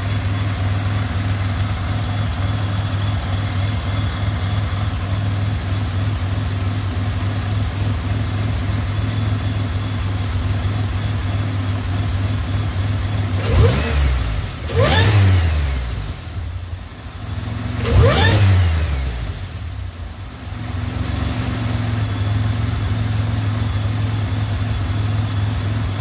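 Supercharged V6 engine idling steadily, blipped twice about halfway through, rising and falling in pitch each time before settling back to idle. Its serpentine belt tensioner has just been replaced, and the owner judges that it sounds much better.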